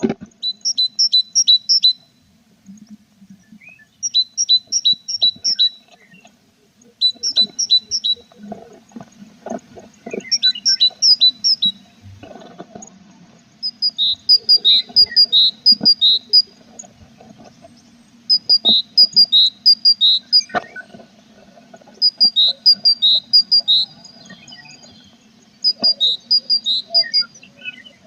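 Tits at a nest box: bursts of sharp, high, rapidly repeated paired notes, each burst a second or two long, coming every few seconds. Soft rustling and a few sharp knocks come from inside the box, over a faint steady low hum.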